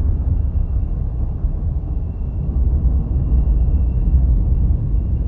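Thunder rumbling, a deep rolling roll that swells and wavers without a sharp crack. A faint steady high tone runs underneath.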